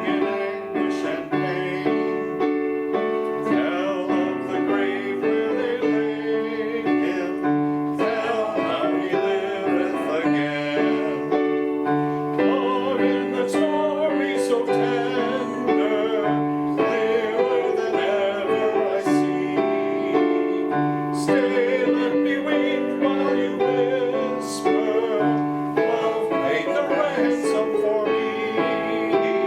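A hymn played on a keyboard with held chords, and voices singing the melody with some vibrato above it.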